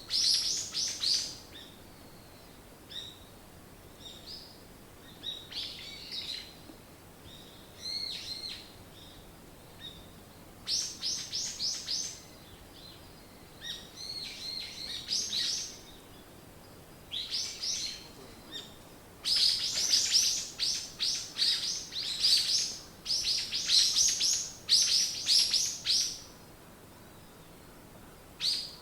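Small songbirds singing, high quick runs of short chirping notes in bursts of a second or two with pauses between. The song grows busiest about two-thirds of the way through.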